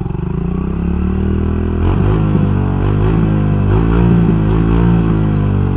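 Kawasaki KLX110's single-cylinder four-stroke engine just after starting, running unevenly for the first moment, then idling. From about two seconds in, the throttle is blipped up and down several times.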